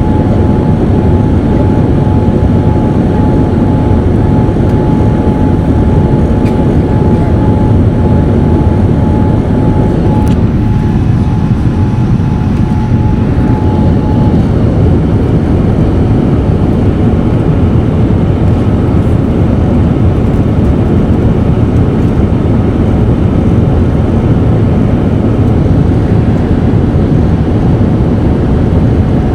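Boeing 787-9 airliner's jet engines running in a steady, loud roar, heavy in the low end, with a thin steady whine that stops about halfway through.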